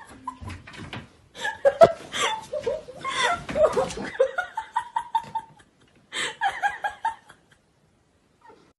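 People laughing in several bursts, with a sharp knock about two seconds in.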